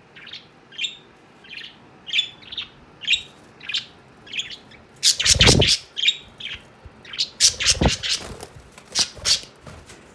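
Pet budgerigars chirping in short, high calls about once every second. In the second half they give way to louder, harsher calls.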